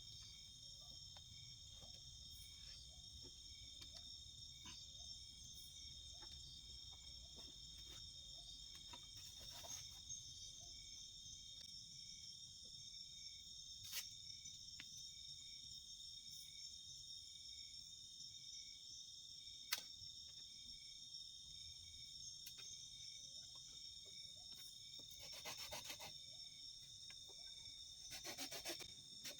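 Faint, steady chorus of crickets and other insects, one voice pulsing. It is broken by a few sharp clicks and, near the end, two short rasping scrapes.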